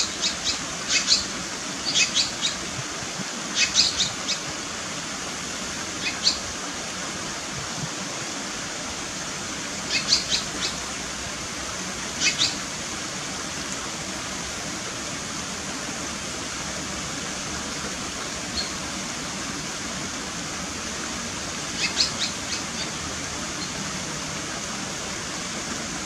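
Clusters of short, sharp, high bird calls, several quick notes at a time, come about every few seconds at first and then again near the end. Under them runs a steady rush of running water.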